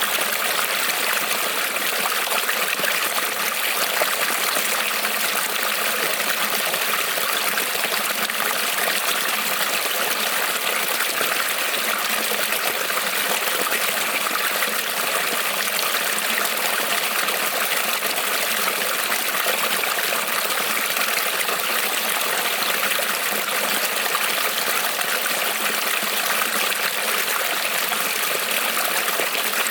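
A small creek rippling and trickling over stones, a steady, even babble of running water.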